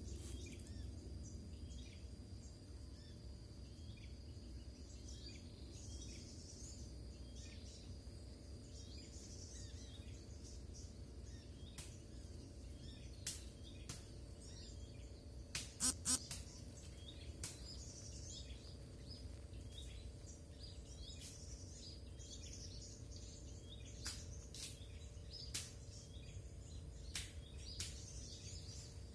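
Quiet forest ambience: faint, scattered bird chirps with a thin steady high tone beneath them. A few sharp clicks break in, the loudest a quick double click about halfway through.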